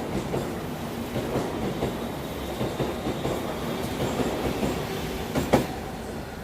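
Air-conditioned EMU commuter train running out of the station, its wheels clattering over rail joints with a steady rumble. A single sharp, loud clank comes about five and a half seconds in, and the sound eases off slightly after it.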